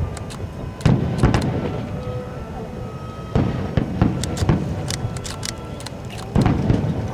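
Aerial fireworks shells bursting: a series of deep booms in clusters, about a second in, midway and near the end, each rumbling away, with crackling between them.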